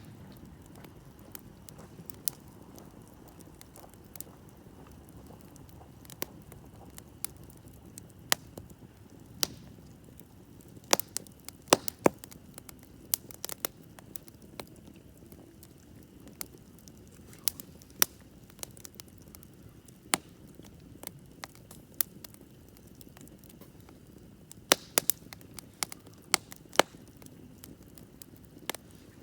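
Wood campfire crackling and popping: irregular sharp snaps, several in quick clusters, over a soft low hiss of burning.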